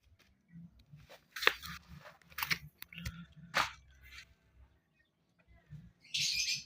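Water noise from an Asian pied starling's bath: a few short, sharp splashing bursts with smaller ones between, then a longer hissing burst of water near the end.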